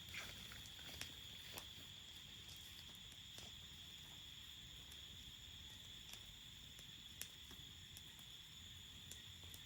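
Crickets trilling steadily and faintly at night, with a few scattered sharp clicks.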